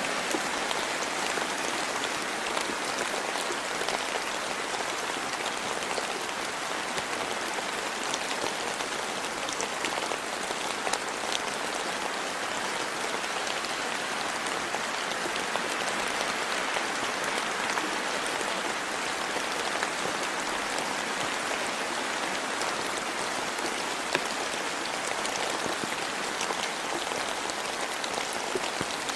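Steady rain falling, with many small drops pattering on leaves and the ground.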